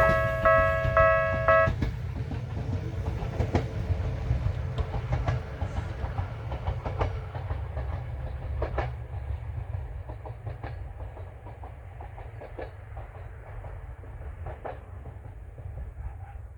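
Bessho Line 1000 series electric train running on past the crossing, a low rumble with irregular sharp wheel clacks over rail joints, fading as it moves away. A level-crossing warning bell rings in a repeating on-off pattern and stops about two seconds in.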